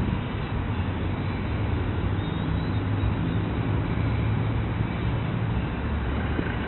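Helicopter running steadily: a continuous loud mechanical noise with a strong low hum.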